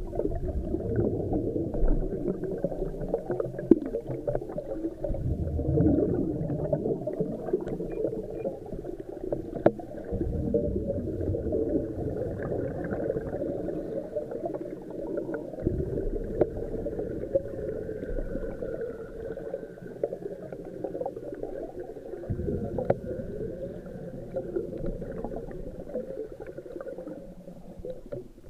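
Muffled underwater sound of water and bubbles, as picked up by a camera in the sea, with heavier low gurgling swells several times.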